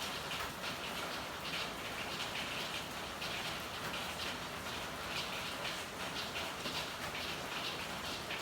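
Steady rain falling, a constant patter with irregular louder splashes of drops every half second or so.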